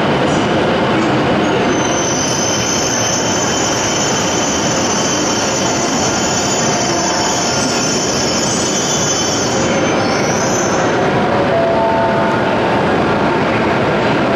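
A Shinkansen train running along the platform at Ōmiya station. The rumble of wheels and motors goes on throughout, with a steady high-pitched whine over it for most of the time, which briefly rises in pitch about ten seconds in before fading.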